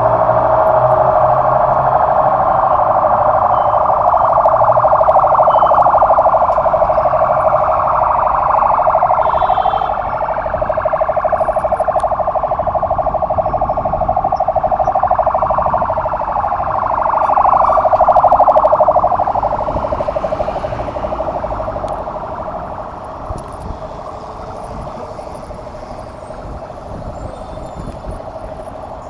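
Several sirens wailing over each other, their pitches sweeping and crossing, loudest after about half the time and then fading away as they move off.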